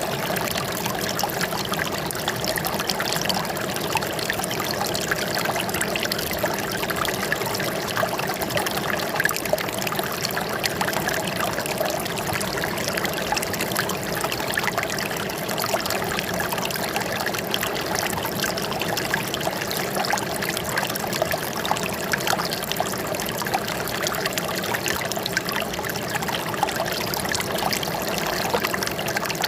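Water flowing and trickling steadily, with many small splashes throughout.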